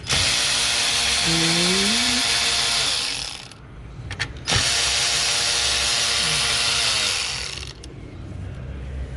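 Cordless electric ratchet spinning a bolt on the alternator, in two runs of about three seconds each with a short pause between them.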